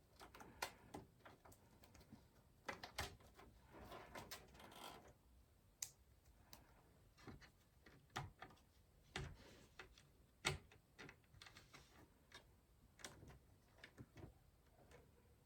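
Faint, irregular clicks and taps of hands handling PC parts, with two short stretches of rustling.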